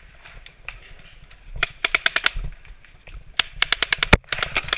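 Paintball markers firing in two rapid volleys of sharp pops, the first about a second and a half in and a louder one near the end.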